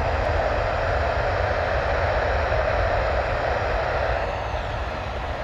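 Jet airliner engines running at taxi power: a steady rushing hum over a low rumble, easing slightly near the end.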